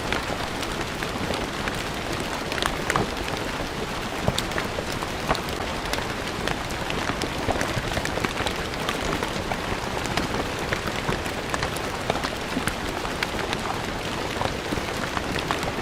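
Steady rain falling on stone paving, a dense patter of individual drops hitting the hard surface.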